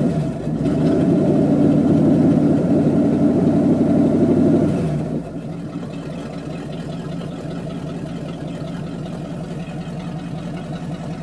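Chevrolet 350 V8 pickup engine running at raised revs, then dropping back to a steady idle about five seconds in, still cold after a winter start.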